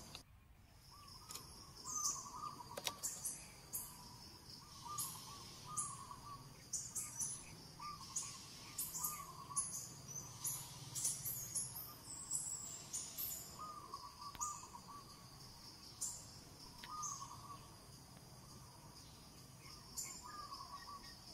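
Birds chirping outdoors: a short warbling call repeated every second or two, with thinner high-pitched chirps over it and a faint low hum underneath.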